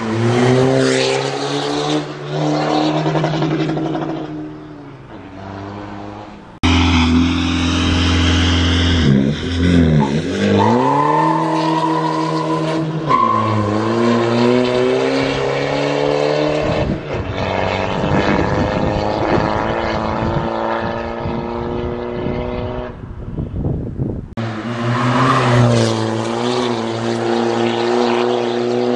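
Volkswagen Polo 1.6 TDI four-cylinder turbodiesel sounding through an aftermarket downpipe and full exhaust system. The engine note rises and falls repeatedly as it is revved and accelerated, and the sound changes abruptly twice.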